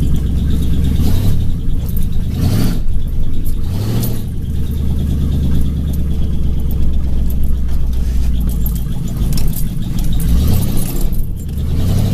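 Chevrolet K5 Blazer engine and exhaust idling low and steady, with short throttle blips: about one, two and a half and four seconds in, then twice in quick succession near the end.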